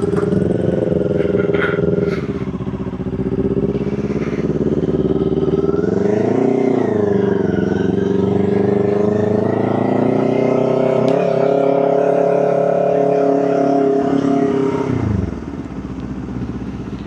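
Motorcycle engine running under way. Its pitch rises and dips quickly about six seconds in, then climbs slowly as it pulls, and drops off sharply about fifteen seconds in when the throttle closes.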